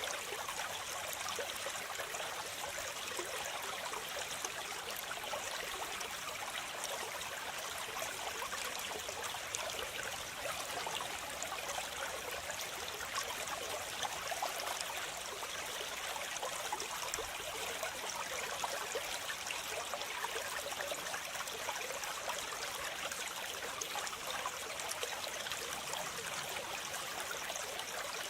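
Waterfall: a steady, hissing rush of falling and splashing water with little deep rumble, unchanging throughout.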